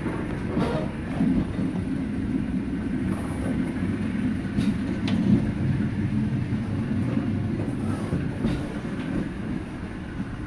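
Passenger train running on the rails: a steady low rumble with a few sharp clacks from the wheels and carriage.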